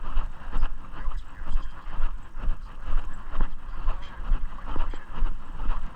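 Steady walking, with footsteps and the jostling of a carried camera swelling about twice a second over a heavy low rumble on the microphone.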